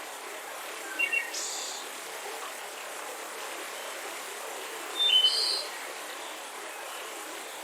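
Mountain river rushing steadily, with birds chirping over it: a few short calls about a second in and a louder cluster of chirps around five seconds in.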